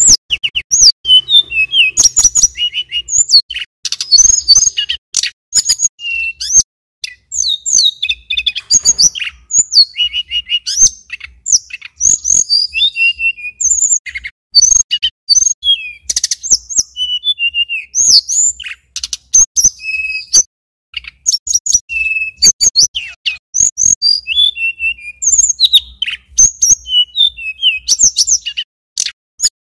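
Male tledekan gunung (sulingan gunung) singing continuously in rapid, high-pitched chirping phrases and short trills, one phrase running straight into the next.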